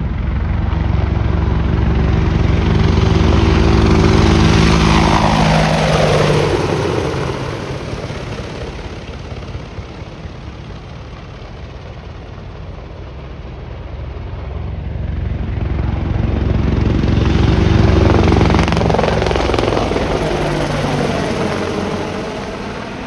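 Boeing AH-64 Apache helicopters flying past low, their rotors and engines swelling up twice, about four seconds in and again around eighteen seconds in. The pitch drops as each one goes by and fades.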